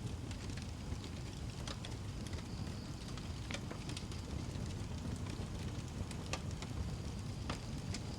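Wood fire burning in a fireplace: a steady low rumble with scattered sharp crackles and pops every second or two.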